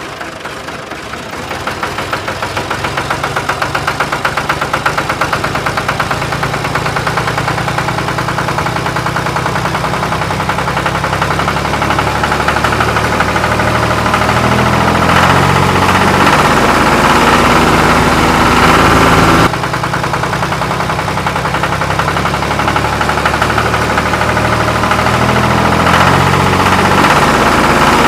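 Engine running with a steady, fast knock, growing louder over the first few seconds.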